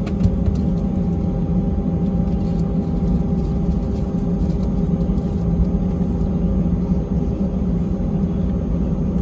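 Airbus A320-200 cabin noise heard from a window seat: a steady jet-engine rumble and hum with a few constant tones, even in level, with no spool-up.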